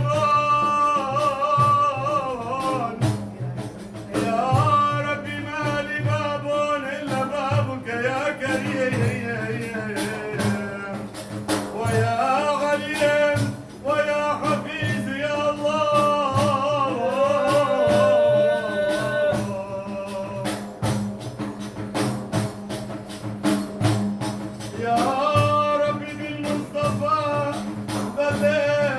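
Male voice singing an Islamic madih (Sufi praise song) in long, ornamented phrases over a steady beat of frame drums. The voice pauses for several seconds past the middle while the drumming continues.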